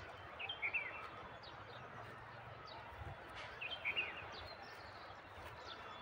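A bird calling a short burst of chirping notes twice, near the start and again about four seconds in, over steady outdoor background noise.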